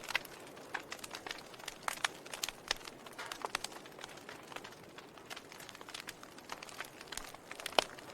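Wood fire crackling: irregular sharp pops and snaps over a soft steady hiss, with the loudest snap about a second before the end.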